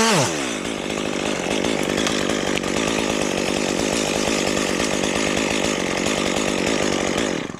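Gas chainsaw engine dropping from a rev to a steady idle just after the start, then shut off suddenly near the end.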